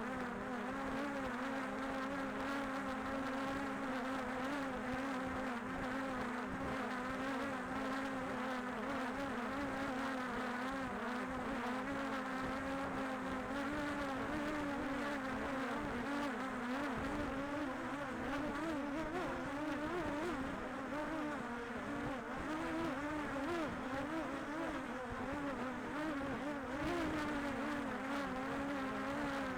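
Quadcopter drone (DJI Air 2S) propellers buzzing: a steady pitched hum that starts to waver up and down about halfway through as the motors change speed.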